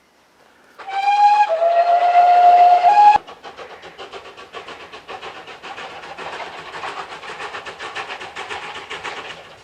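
A train's whistle sounds about a second in, a short higher note stepping down to a longer lower one, and cuts off abruptly after about two seconds. It is followed by a fast, even rhythmic beat from the moving train.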